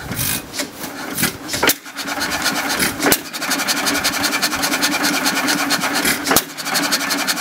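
John Deere 3 HP hit-and-miss stationary engine starting. A few irregular knocks give way, about two seconds in, to a steady fast mechanical clatter, broken by two loud firing strokes about three seconds apart.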